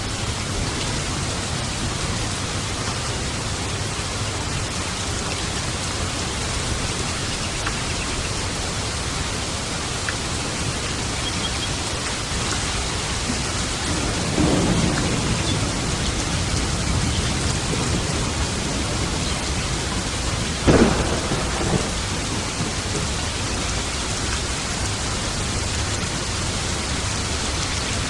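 Steady rain falling in a thunderstorm, with two peals of thunder: a rolling rumble about halfway through, and a few seconds later a sharper, louder crack that trails off in a brief rumble.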